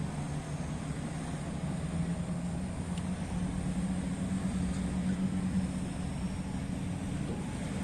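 Heavy earthmoving machine's diesel engine running steadily under load, a low drone that rises a little in pitch about two seconds in and then holds.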